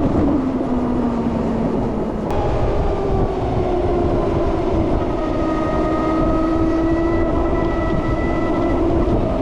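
Harley-Davidson LiveWire electric motorcycle on the move: the motor and drive whine drops in pitch as the bike slows, then rises again as it picks up speed, over heavy wind and road rumble.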